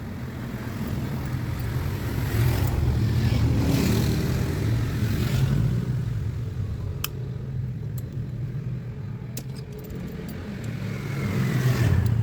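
A car engine running steadily, swelling louder twice as if revved, with a few sharp metallic clicks in between.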